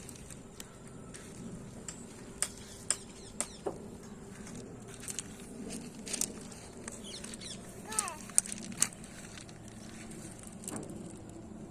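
Small stones clicking sharply against each other, about a dozen separate knocks at uneven intervals, as in a children's gitti stone game.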